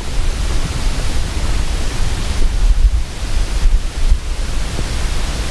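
Wind buffeting the microphone: a steady rushing hiss over a strong, gusting low rumble.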